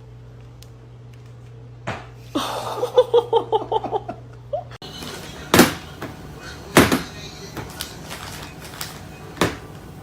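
A person laughing in a quick run of short pulses, then a few sharp knocks or thumps at uneven intervals.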